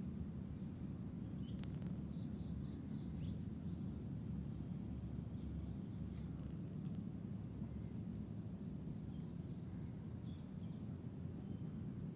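High-pitched insect trilling, typical of crickets, in long runs of one to two seconds with brief breaks between them, over a steady fainter higher whine. A steady low rumbling noise sits underneath.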